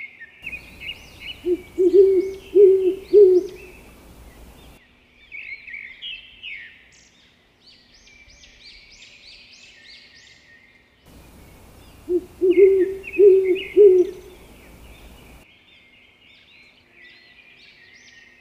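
A small owl hooting: a run of four low hoots, then the same four-hoot run again about ten seconds later, over higher chirping calls.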